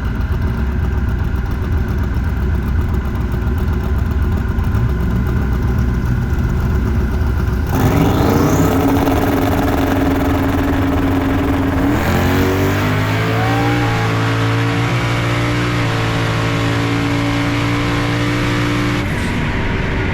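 Drag-racing street car engine rumbling at the line, then launching about eight seconds in and accelerating hard, its pitch climbing and dropping back in steps as it shifts through the gears. The sound changes again near the end.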